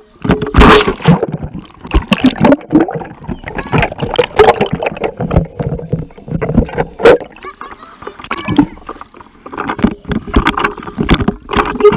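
Water splashing and sloshing close to the microphone, in loud, irregular surges.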